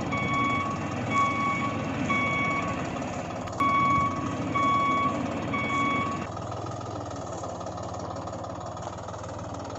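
Electronic reversing beeper of a toy vehicle, beeping about once a second over the whirr of its small motor; a click about three and a half seconds in, then both stop about six seconds in, leaving a low steady hum.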